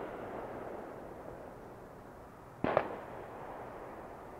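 Fireworks going off: a single sharp bang about two-thirds of the way in, with a quick second crack on its heels, followed by a long echo dying away. Before it, the echo of an earlier bang is still fading.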